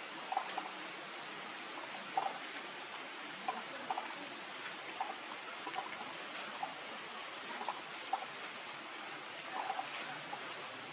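Steady rain falling, with irregular short plinks of drips.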